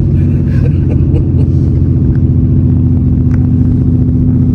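Pickup truck engine running steadily at low revs, an even deep rumble with no revving; a faint click about three seconds in.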